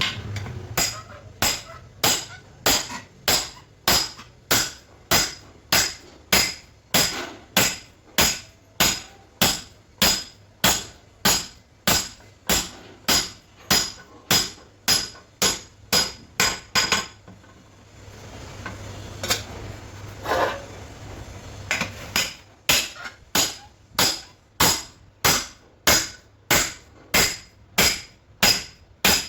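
Hammer blows on metal, driving a cylinder sleeve into a Cummins 6BT engine block: a steady run of sharp strikes at about two to three a second. The strikes break off for a couple of seconds about two-thirds of the way through, then resume.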